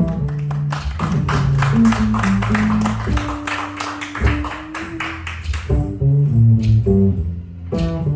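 Instrumental music: a guitar picking a melody over a bass line, with plucked notes ringing on.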